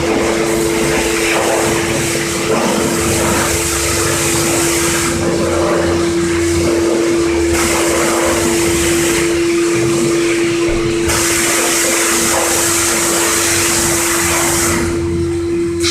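Car-wash high-pressure washer running: a steady hum from its pump under the hiss of the spray, which breaks off briefly about four times.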